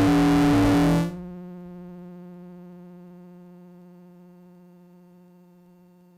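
Soma Lyra-8 synthesizer playing a loud, distorted drone whose lower notes alternate back and forth in a steady pattern. About a second in the noise cuts off suddenly, leaving one low tone with a slight wobble that fades slowly.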